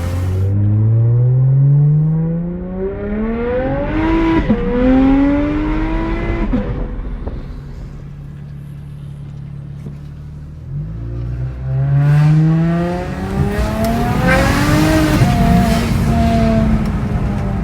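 BMW 335is N54 3.0-litre straight-six with a single-turbo conversion, revving and accelerating: the pitch climbs for a few seconds, drops, then climbs again. It settles to a steady lower note midway, then revs up again.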